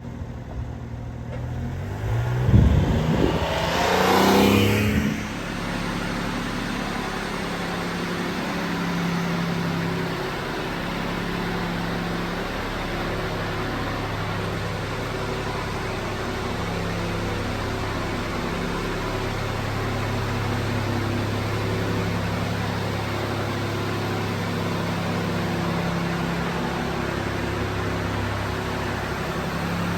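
Honda Acty mini truck's small three-cylinder engine starting up about two seconds in, with a brief rising rev, then idling steadily.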